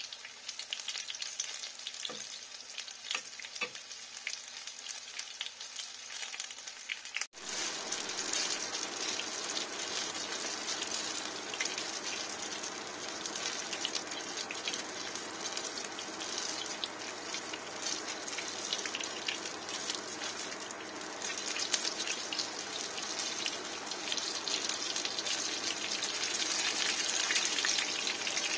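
Battered banana slices sizzling as they fry in oil in a nonstick frying pan, with a few light clicks of a fork and wooden spatula turning them in the first few seconds. About seven seconds in the sizzling jumps louder and stays dense.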